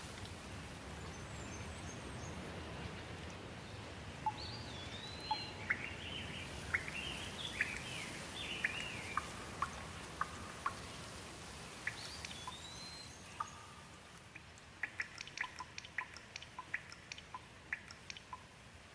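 Soft steady rain hiss with birds chirping in short, repeated curving calls; in the last few seconds the rain thins and quick drips patter in a rapid run.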